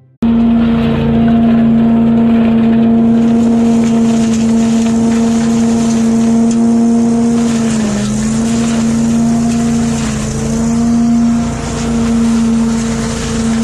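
A motor running steadily at high speed, a strong held hum over hiss, its pitch dipping briefly about eight seconds in and again a couple of seconds later.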